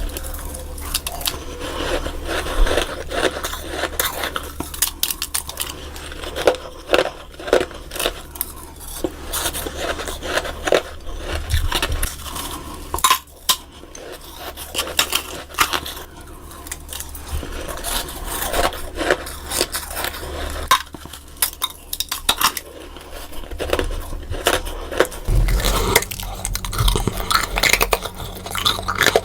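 Close-miked crunching and scraping of freezer frost, a dense uneven run of crisp crackles and clicks.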